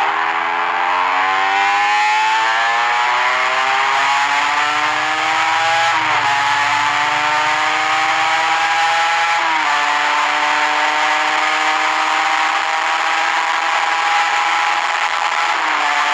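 Yamaha TZM150 single-cylinder two-stroke engine accelerating hard through the gears: its pitch climbs, dips briefly at upshifts about six and nine and a half seconds in and again near the end, and after the second shift holds at high, slowly rising revs towards top speed.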